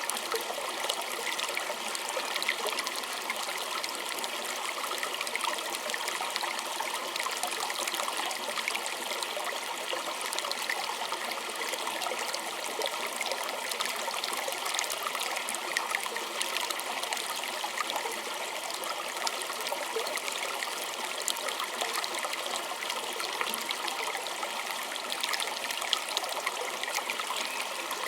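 A small stream trickling and splashing over stones, a steady, bright babble of water with many small splashes.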